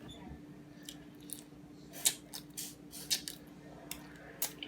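Crisp cracking and snapping of cooked shellfish shells being broken open while eating, about nine sharp cracks in irregular succession, the loudest about two seconds in.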